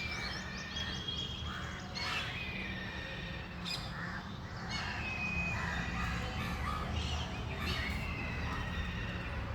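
Several birds calling, with many short overlapping whistled and harsher calls, some gliding down in pitch, over a steady low rumble.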